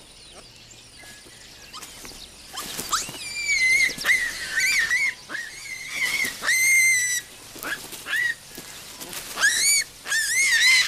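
Young olive baboons squealing: a string of high-pitched calls that bend up and down in pitch. They start about two and a half seconds in, as the youngsters squabble over sleeping places.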